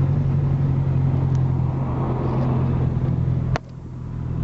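Car driving, its engine a steady low drone over road noise. A sharp click comes about three and a half seconds in; the sound drops off suddenly at that point and then builds back up.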